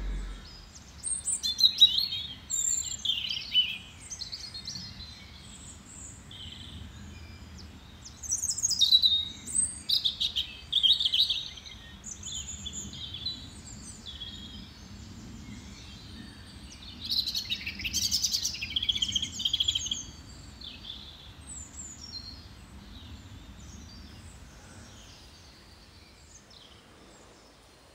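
Songbirds chirping and singing in lively bursts of short high calls and trills, thinning out and fading over the last several seconds, over a faint low background noise.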